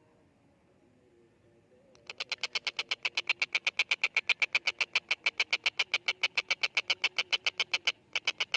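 Tengkek buto (stork-billed kingfisher) calling a rapid chattering series of sharp notes, about eight a second, starting about two seconds in and running on, with a short break near the end.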